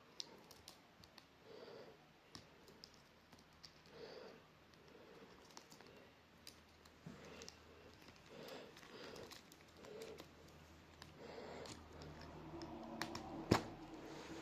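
Quaker parrot's beak working at an object, making faint, irregular clicks and taps, with one sharp, louder click near the end.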